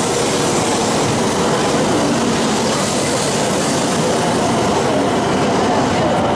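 Shinkansen train running: a steady, unbroken rushing rumble of wheels and air.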